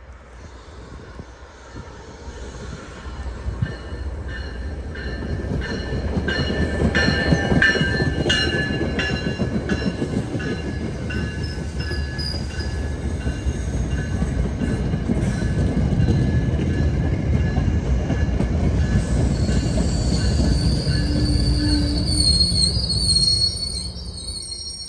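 MBTA commuter rail train rolling past: a heavy rumble of wheels on rail builds over the first few seconds and stays loud, with high wheel squeal running through it and a sharper, higher squeal in the last few seconds.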